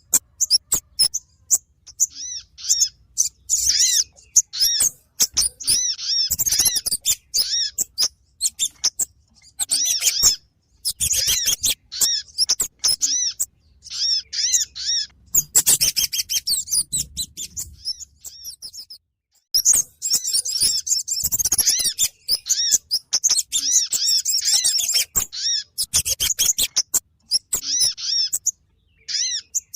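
Recorded lure calls for Kemade and Sogon birds: bursts of rapid, high-pitched chirping and twittering made of quickly repeated notes, broken by short gaps, with one clear pause a little after the middle.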